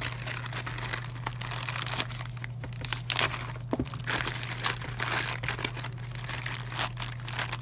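A shipping package being torn open by hand, its packaging crinkling and rustling in irregular bursts, over a steady low hum.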